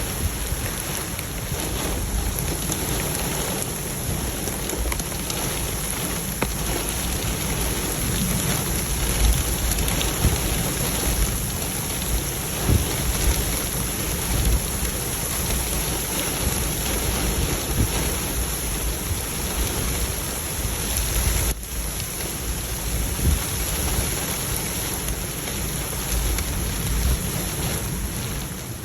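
Heavy thunderstorm downpour with hail: a dense steady roar of rain and hailstones striking surfaces, with many sharp individual hits and a deep rumble of thunder underneath.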